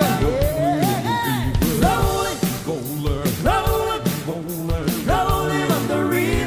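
Live band playing rock and roll, with sung vocal phrases over bass and drums.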